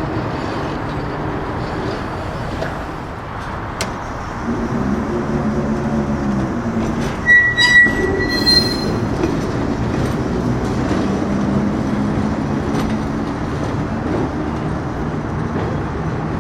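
Perley Thomas streetcar running on its rails with a steady rumble, its motor hum rising as it gathers speed, and a brief high wheel squeal about seven seconds in.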